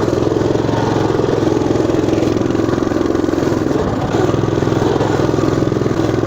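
Motoland RT200 pocket all-terrain motorcycle's engine running steadily under load as it is ridden through mud, easing briefly about four seconds in.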